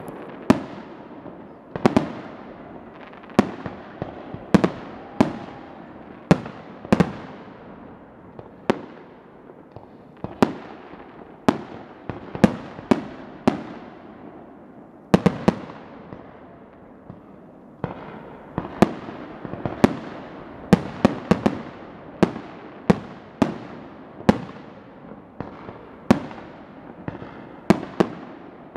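Aerial fireworks bursting overhead one after another, a sharp bang every second or so at an uneven pace, each trailing off in echoes.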